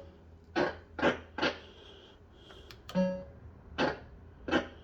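Bell-Fruit Wild Cats fruit machine playing its electronic sound effects: a string of about six short, sharp bleeps, with a brief held two-note tone about three seconds in.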